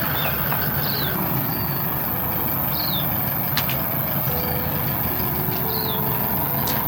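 An engine running steadily with a low rumble, with several short high chirps over it.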